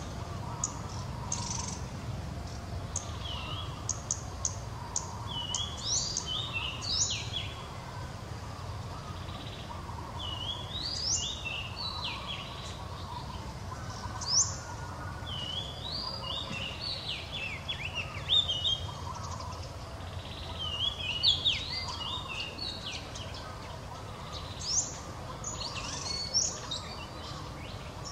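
A songbird singing in short phrases of quick, high chirps and pitch slides, repeated every few seconds, over a steady low background rumble.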